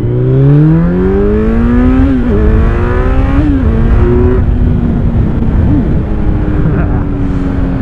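Kawasaki Z900 inline-four with an Akrapovic exhaust, heard from the saddle: it pulls up through the revs, then drops in pitch with quick upshifts about two and three and a half seconds in, and another about four seconds in. After that it runs at a nearly steady, slowly falling engine speed over rushing wind noise.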